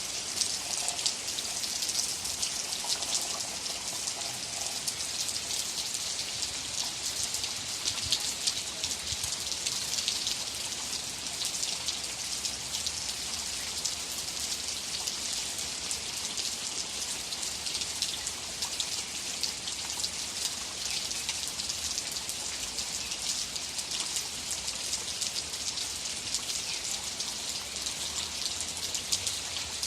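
Steady rain: a continuous hiss of falling rain, made of countless small raindrop ticks.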